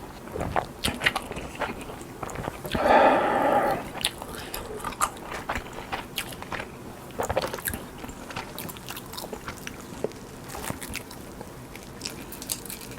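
Close-miked eating: bites and chewing with many crisp crackles. A louder sustained sound lasting about a second comes about three seconds in.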